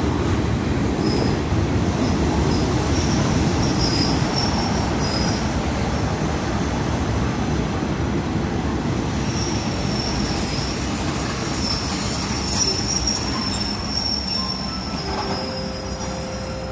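Passenger train rolling into a station and slowing, a steady rumble of wheels on rail with high-pitched brake and wheel squeal. The squeal comes in short snatches at first, then holds almost without a break from about halfway on as the train brakes.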